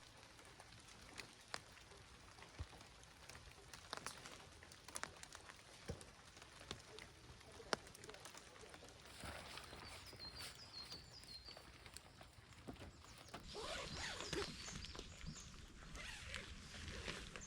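Light rain outdoors: scattered drops tapping and ticking over a faint patter, with a short run of high chirps about ten seconds in and a denser patch of rustling near the end.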